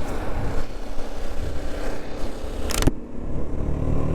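BMW G 310 RR's single-cylinder engine running under wind rush on the helmet microphone. There is a brief loud burst of noise near three seconds, after which the wind rush falls away and the engine's steady low hum comes through.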